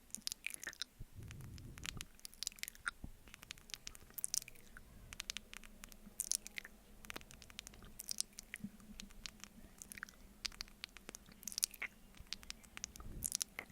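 ASMR mouth sounds of eating honey off a spoon: a dense, irregular run of wet, sticky smacks and clicks from lips and tongue.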